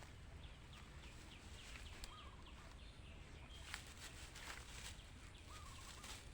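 Birds calling faintly: a run of short, high chirps that fall in pitch, repeated many times, with a few lower warbled notes and scattered light clicks and crackles.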